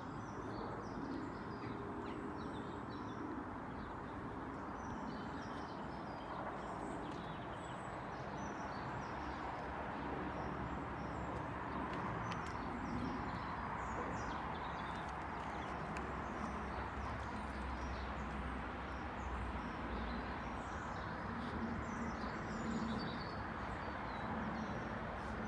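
Outdoor ambience of small birds chirping faintly and repeatedly, over a steady background rumble.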